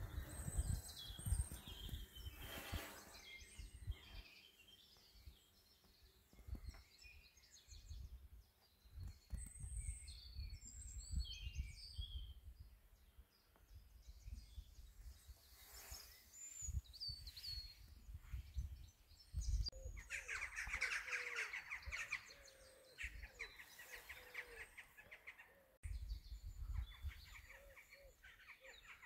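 Small songbirds chirping and singing on and off, with low rumbles in gusts now and then.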